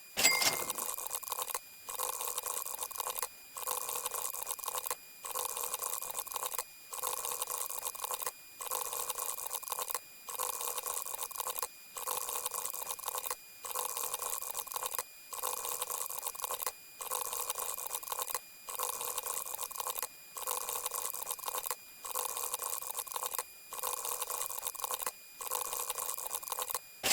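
A short hissing sound effect repeated evenly, about every 1.7 seconds, sixteen times in a row with short gaps between: one per number counted in hexadecimal. A brief bright ping sounds at the very start and again at the end, where the count of sixteen rolls over.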